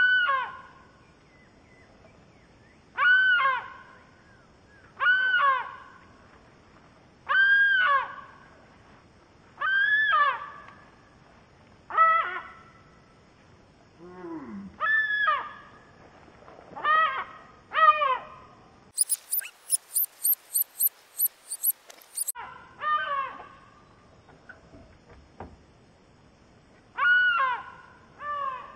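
A gull calling over and over, a harsh cry about a second long that rises and falls, repeated every two to three seconds: the alarm calls of a gull defending its nest. About two-thirds of the way through, a few seconds of rapid high-pitched ticking, about four ticks a second.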